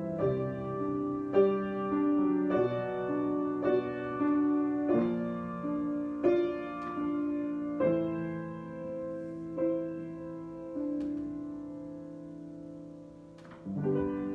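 Slow improvised piano playing: sustained chords struck about once a second, spacing out and fading away near the end, then one more chord struck just before the end.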